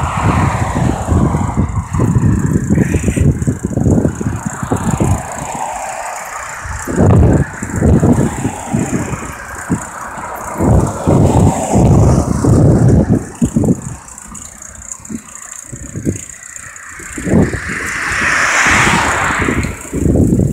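Wind buffeting the microphone while riding a bicycle, in irregular low gusts, with road traffic around; a vehicle swells past and fades near the end.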